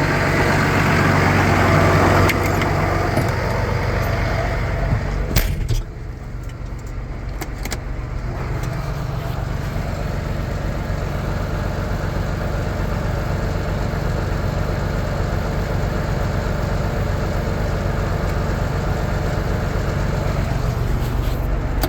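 Vehicle engine running, louder for the first couple of seconds as it backs up, then settling to a steadier, quieter run after a few sharp clicks about five and a half seconds in.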